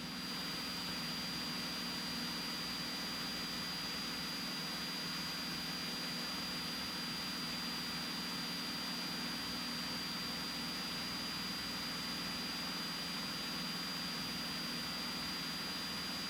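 Cessna 182T's six-cylinder piston engine and propeller droning steadily in the cockpit during the climb-out after takeoff, heard as a muted hum under an even hiss with a faint high whine.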